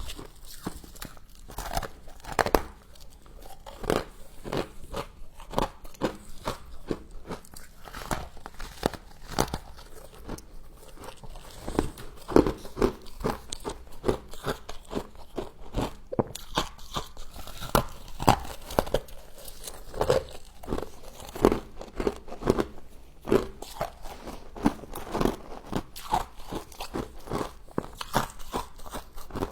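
Close-miked biting and chewing of humidifier frost: crisp, irregular crunches, several a second, with no break.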